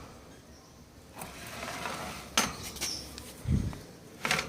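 Wire birdcage being handled while a mat is laid in: a few metallic clinks and knocks, with a duller thump about three and a half seconds in.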